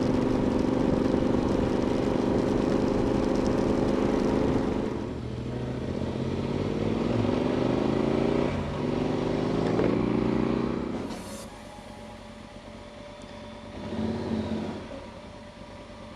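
Motorcycle engine running steadily, then accelerating with rising pitch through a gear change, fading off about eleven seconds in.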